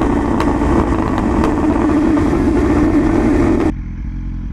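Motorcycle engine held at high revs, then cut off abruptly about three and a half seconds in. A quieter, low steady engine hum follows.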